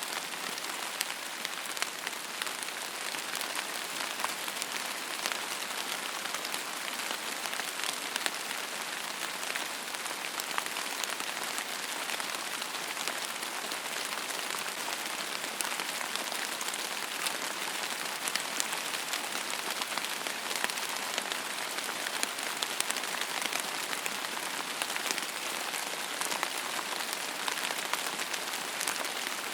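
Steady rain falling on a surface, a dense even hiss with many fine scattered drop ticks and no thunder.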